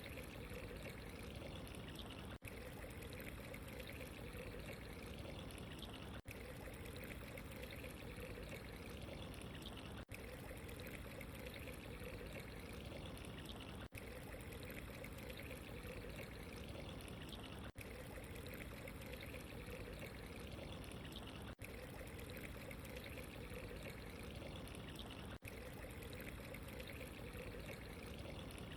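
Steady running, trickling water, an even unbroken flow. A very brief dropout comes about every four seconds.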